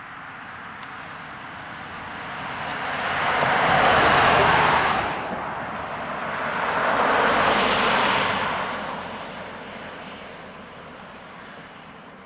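Two road vehicles pass close by one after the other. The tyre and engine noise swells and fades for each, the first a little louder, with no siren sounding.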